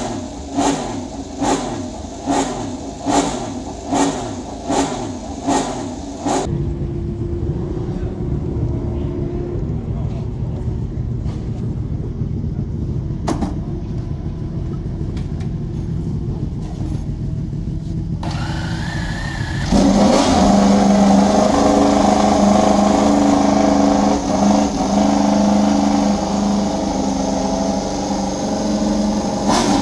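Racing motorcycle engines running and revving. There is a run of evenly spaced pulses in the first few seconds, and the sound gets steadily louder from about two-thirds of the way in.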